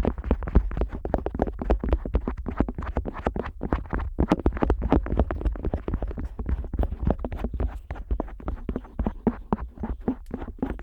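An otoscope rubbed, pressed and tapped against the silicone ear of a Neumann KU100 binaural dummy head, picked up right at the ear's microphone. It makes a dense, rapid run of scratchy, crackling strokes with a low rumble beneath.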